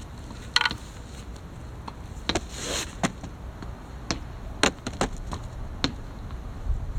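A series of irregular sharp taps and knocks, about a dozen, with a short squeak-like sound just over half a second in and a brief swish in the middle.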